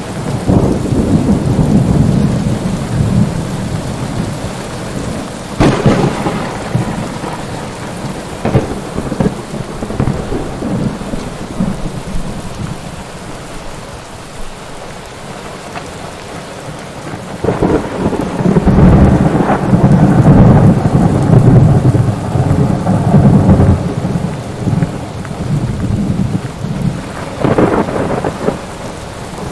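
Steady heavy rain with rolling thunder: sharp thunder cracks about six seconds in and again near the end, and a long, loud rumble of thunder through the middle of the stretch.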